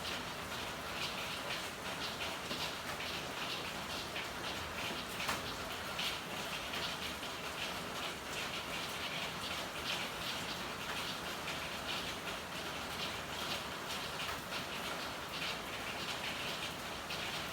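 Steady rain falling in an alley, a constant hiss with many small drop impacts ticking on hard surfaces.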